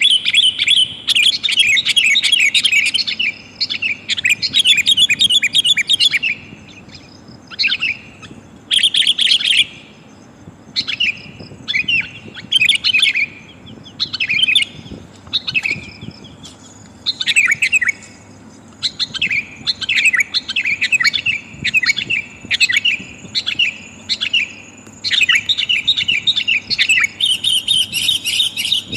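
Sooty-headed bulbul calling in rapid, chattering bursts, in bouts of one to three seconds with short pauses between; the recording is offered as a female calling to males, used as a lure for wild bulbuls.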